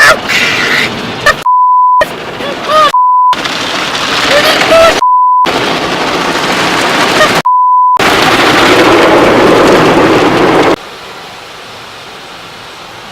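Car wash water jets drumming on the car as a loud, steady rush, which drops suddenly to a quieter steady hiss about three-quarters of the way through. Over it, four long censor bleeps cut out shouted words.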